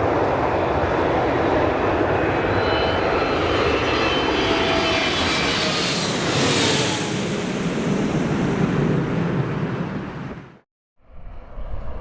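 Boeing 747-8F's four GEnx turbofans passing low on landing approach: steady jet noise with a faint fan whine that dips slightly in pitch, the hiss swelling about six seconds in as the aircraft goes by. The sound cuts off abruptly near the end.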